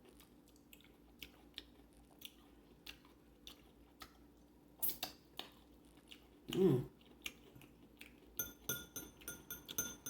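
Eating sounds: soft chewing and scattered clicks, a short vocal sound about two-thirds through, then a quick run of metal utensil clinks ringing against a dish near the end.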